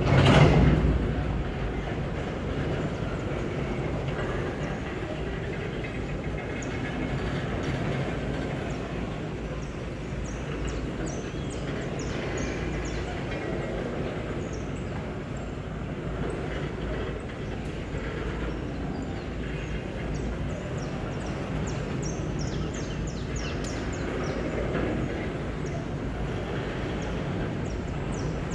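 Empty GDT ore wagons of a long freight train rolling past in a steady rumble, with many short high wheel squeaks. A louder moment comes right at the start.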